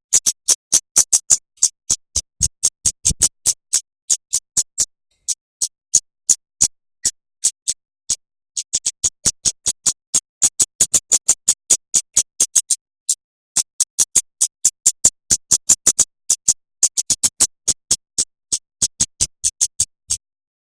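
A songbird tutor recording: a fast run of short, sharp, high chip notes, about five a second, in bursts with brief silent gaps. The notes stop a little before the end.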